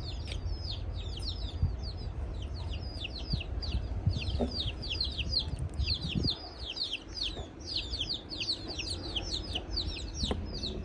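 Small birds chirping nonstop: a dense stream of short, high chirps that slide downward, several a second and overlapping, over a low rumble, with a few faint knocks.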